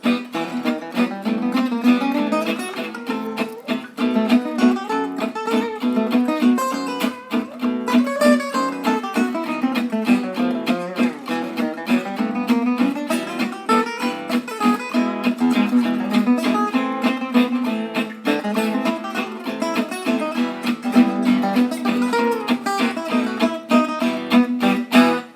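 Background music: acoustic guitar playing quick picked notes over a steady low drone, stopping abruptly at the end.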